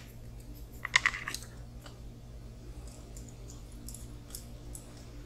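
Small hard parts clicking and ticking as a drive shaft is fitted to an RC crawler: a quick cluster of sharp clicks about a second in, then lighter scattered ticks, over a steady low hum.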